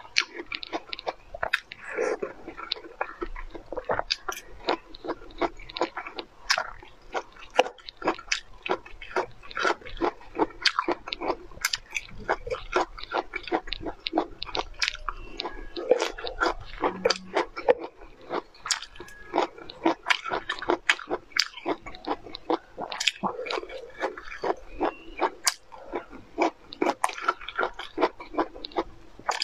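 Close-miked eating: a person biting and chewing broccoli florets, with many wet mouth clicks and smacks each second.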